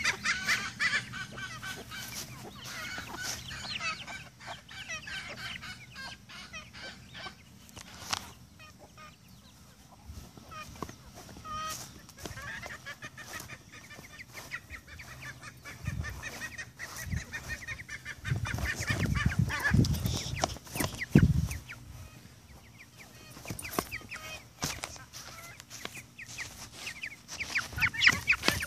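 A flock of free-ranging chickens clucking and calling in short repeated notes, busier at the start and near the end. A few loud low thumps come in the middle.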